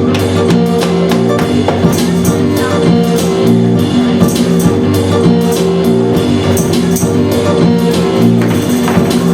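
Live band music: guitar and bass chords over a steady drum beat.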